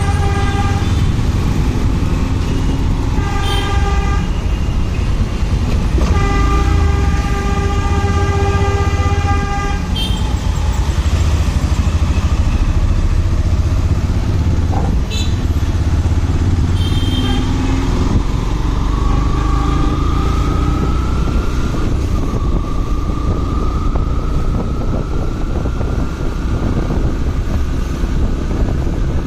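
Motorcycle riding in city traffic, with a steady engine and wind rumble. Vehicle horns honk several times: short toots near the start and about halfway, and one long blast of about three and a half seconds. A whine rises slowly in pitch over the last third.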